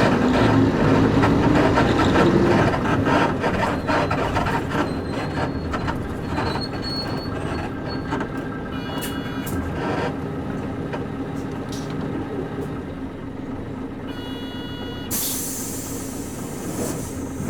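Interior running sound of a Nissan Diesel KC-UA460LSN bus with its PG6 diesel engine: the engine pulls up in pitch for the first couple of seconds, then the bus runs on more quietly as it slows. Electronic beeps sound about halfway through and again near the end. A hiss of air follows the second set of beeps.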